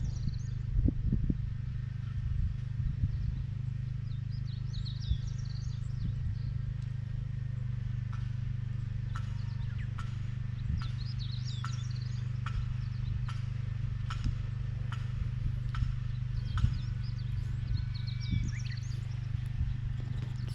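The small engine of a vegetable transplanter runs steadily with an even low hum. Through the middle stretch its mechanism gives a regular light click about every two-thirds of a second. Birds chirp now and then above it.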